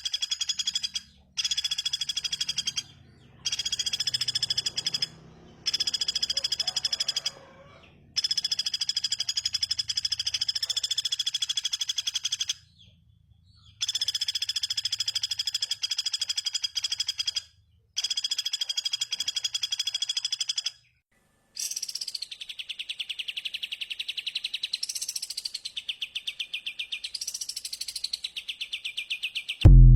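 Recorded bird calls played for luring: rapid buzzy trills repeated in phrases of one to four seconds with short silences between. About two-thirds of the way in, these give way to a different rapid pulsed call that sweeps up and down in pitch. A brief loud thump comes at the very end.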